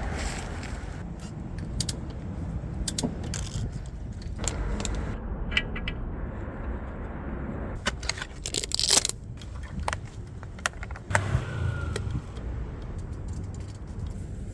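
Metal clinking and rattling, like tools and small parts being handled, over a steady low rumble, with a burst of clattering about eight to nine seconds in.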